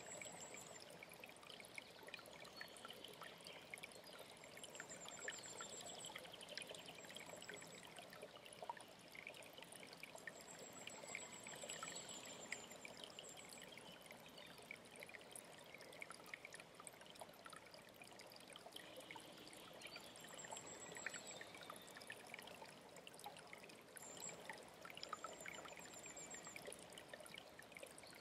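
A small mountain stream trickling and splashing steadily, faint, with a small bird repeating a short, very high, rapid trill every few seconds.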